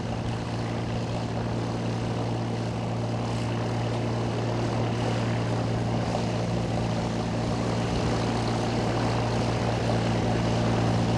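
Propeller airplane engine droning steadily as the plane arrives, growing gradually louder.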